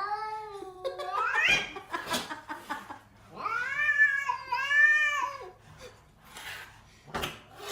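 A cat yowling in long, drawn-out calls: one at the start that bends and rises at its end, then two more arched calls back to back about three and a half seconds in. A couple of short sharp noises follow near the end.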